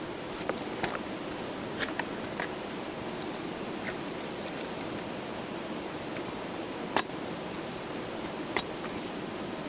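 Steady rush of river water under a high, continuous insect hum, broken by a handful of sharp cracks, the loudest about seven seconds in.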